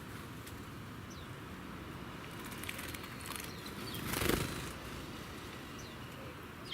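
Small wild birds at a birdbath: a brief noisy flurry of wings and water about four seconds in, with a few short, high, falling chirps.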